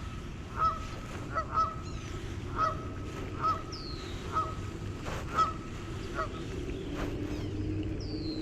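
Short animal calls repeating roughly once a second over a steady background hiss, with a high falling whistle twice.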